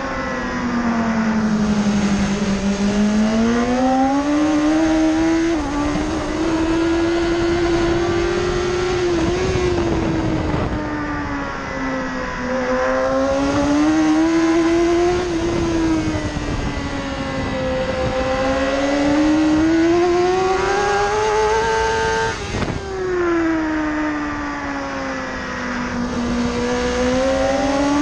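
BMW S1000RR inline-four sport-bike engine at full race pace: revs climb hard, then fall away on the brakes again and again, with a sudden drop in revs about three-quarters of the way through. A steady rush of wind noise runs underneath.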